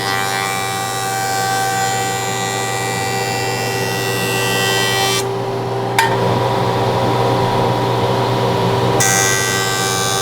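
Woodworking jointer running with a steady motor hum and whine while a hard maple board's face is flattened; the sound changes from about five seconds in to about nine seconds in, with a sharp click near the middle.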